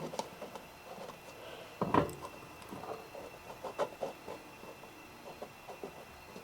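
Scattered light clicks and knocks of tools being handled while setting up a drill, with one louder knock about two seconds in.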